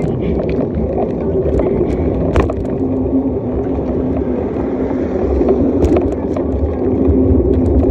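Bicycle ride noise: wind buffeting the microphone along with tyre and rattle noise, with scattered clicks. A steady low hum joins about two seconds in.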